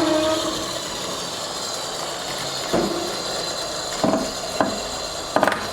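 Electric winch running steadily, pulling a heavy old school bus along, with a few short creaks and clunks from the load about halfway through and near the end.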